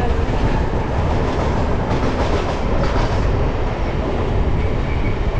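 Passenger train running on the track, heard from its own coach: a steady, loud rumble of steel wheels on rail, with a few faint clacks over rail joints.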